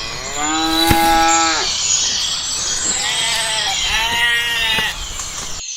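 Bleating calls: one long bleat about half a second in, then a run of shorter bleats from about three to five seconds.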